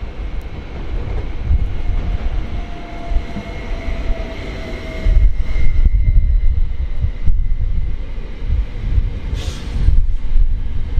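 Electric multiple unit train running along the tracks with a heavy low rumble, a steady high electric whine, and a lower tone that slowly falls in pitch about halfway through. A brief hiss near the end.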